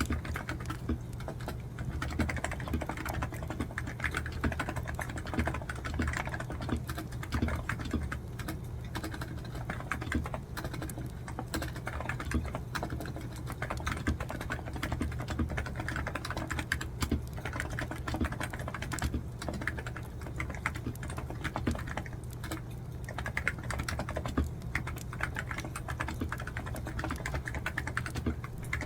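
Fast, continuous typing on a computer keyboard, dense irregular key clicks with only brief slack moments, over a steady low hum.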